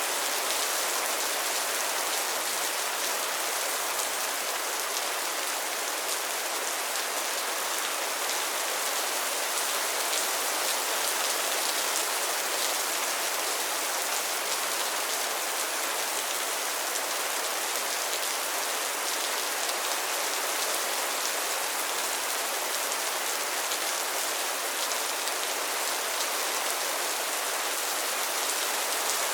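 Steady rain falling on a pond and its lily pads, an even hiss of many drops with fine patter.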